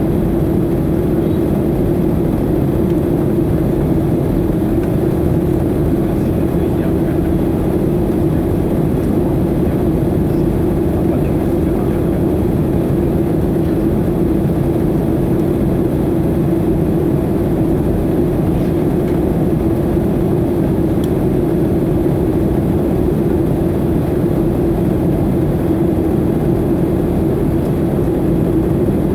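Boeing 737-800 airliner with CFM56-7B turbofans, heard as a steady, unbroken engine and airflow noise with a constant low hum.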